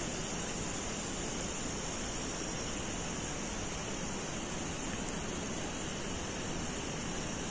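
Steady outdoor background hiss with a constant high-pitched drone above it and no distinct events.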